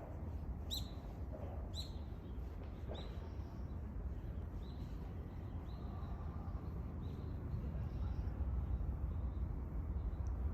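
Small birds chirping: short, falling high-pitched calls about once a second, loudest in the first few seconds and fainter later, over a steady low background rumble.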